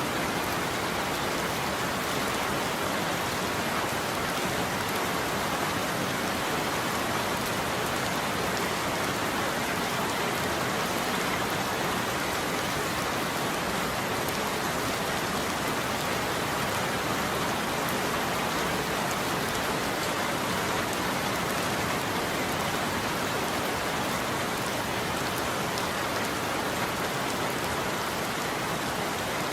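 Steady heavy rain falling on a roof, a dense even patter with no thunder.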